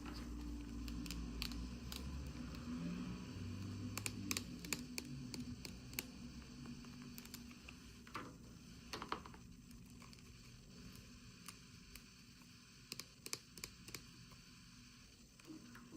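Hands unboxing small toys: scattered light clicks and ticks of plastic and packaging being handled, with soft rustling, and a low hum under the first half.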